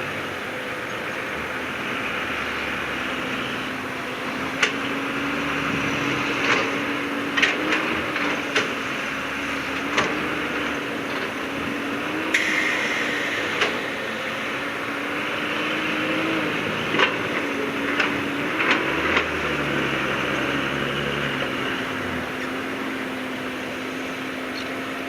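Heavy diesel earthmoving machinery running, its engine note rising and falling slightly with load, with sharp knocks and clanks scattered through and a short hiss about halfway.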